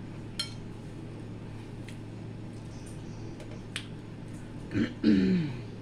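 Mouth sounds of eating neckbones close to the microphone: a few sharp, separate lip-smacks and chewing clicks spaced out over several seconds, then a short voiced sound near the end.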